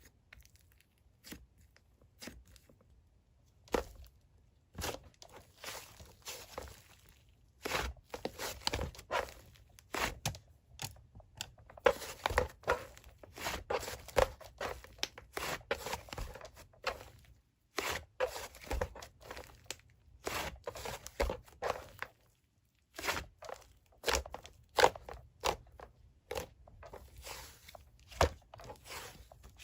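A soft, squishy object squeezed and pressed by hand near the microphone, giving repeated crinkly, crunchy crackles in irregular clusters with a few short pauses.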